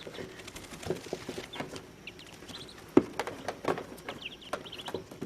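One-day-old Muscovy ducklings peeping in short high chirps, with scattered sharp taps and knocks, the loudest about three seconds in.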